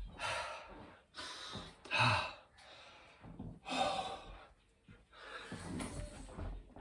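A man breathing hard and gasping while doing high-rep burpees, with loud heavy breaths about every two seconds. The breaths grow weaker near the end. This is heavy exertion deep into a long workout.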